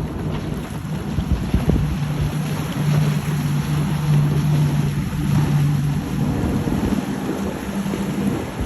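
A motorboat engine running with a steady low hum that is strongest in the middle, under wind buffeting the microphone.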